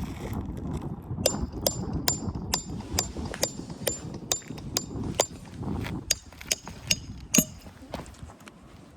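Hammer driving roofing nails during a shingle roof repair: a steady run of sharp blows, about two a second, each with a brief metallic ring, with a short pause a little past halfway.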